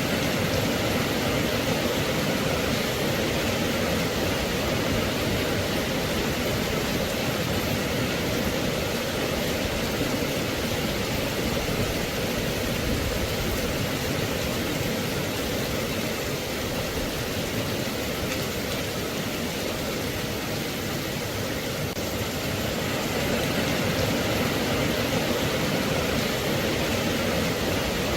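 Steady rain, an even hiss with no breaks or distinct drops standing out.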